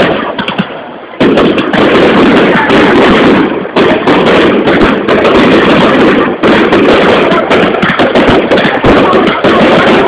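Fireworks display going off in a dense, nearly continuous barrage of overlapping bangs and crackle, loud throughout after a short lull about a second in.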